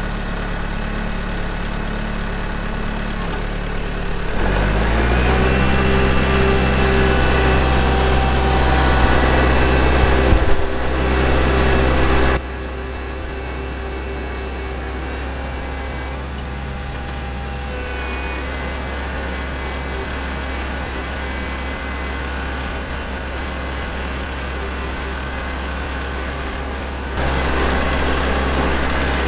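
Kubota L4701 compact tractor's four-cylinder diesel engine running as the tractor is driven. It revs up about four seconds in. The sound drops off abruptly about twelve seconds in and comes back louder near the end.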